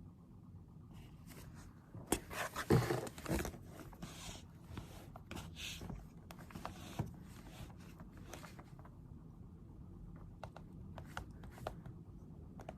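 Desk handling sounds from someone studying: a burst of rustling and scraping about two seconds in, then scattered light taps and clicks over a faint room hum.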